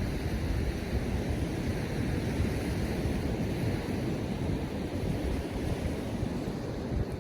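Storm wind buffeting the microphone over a steady wash of surf on the beach.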